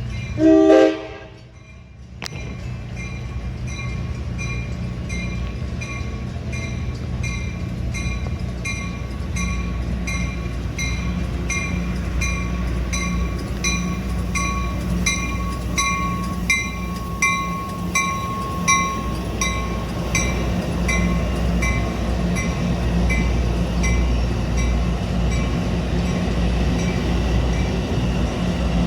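A locomotive horn sounds one short, loud blast about a second in. Then a train rumbles by, its diesel engine and cars building steadily, while a grade-crossing bell rings at an even pace.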